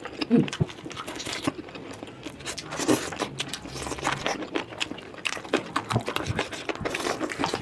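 A person eating close to the microphone: chewing and biting food, with many short, irregular crunches and clicks.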